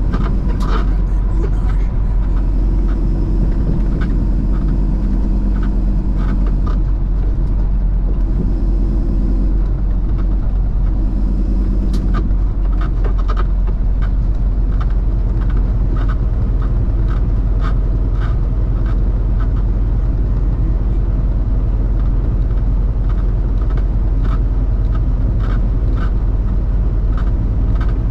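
Semi truck running down the road, heard from inside the cab: a steady, heavy low engine and road rumble, with scattered short clicks and rattles throughout.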